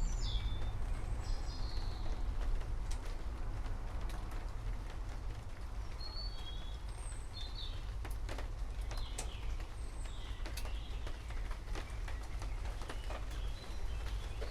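Several forest birds chirping in short, high, scattered calls over a soft hiss of rain and a steady low rumble. A few sharp drip-like ticks come in the middle.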